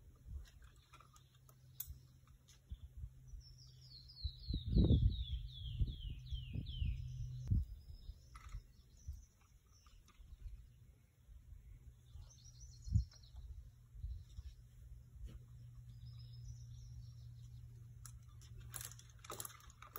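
A bird singing a quick cascade of about ten notes that step down in pitch, about four seconds in, with a few scattered chirps later. Under it a steady low hum and several heavy low thumps on the microphone, the loudest around the time of the song.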